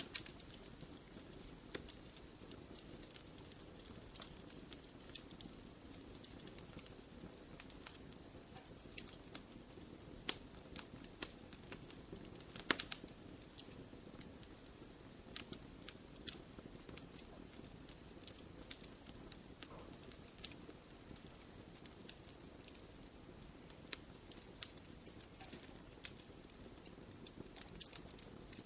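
Fire burning in a fireplace, crackling: irregular sharp pops and snaps over a low steady rumble, the loudest snap about thirteen seconds in.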